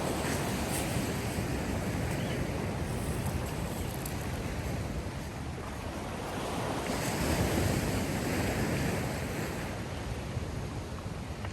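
Sea surf washing ashore in a steady rush with wind, swelling louder about seven seconds in.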